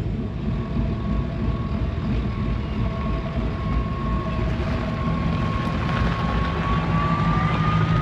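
Truck engine and exhaust rumbling steadily, with a thin whine that rises slightly in pitch near the end.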